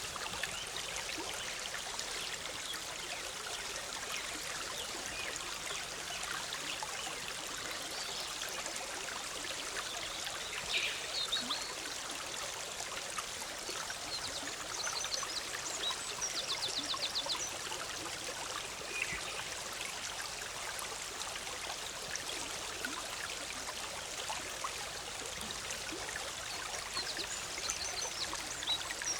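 Forest stream bubbling and splashing steadily over rocks, with small birds calling over it: a short call about a third of the way in, and quick trills of rapidly repeated high notes around the middle and again near the end.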